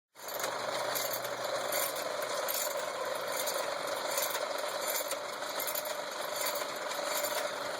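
Coal forge blower running steadily, a continuous mechanical whir with a sustained hum, as air is driven into the fire.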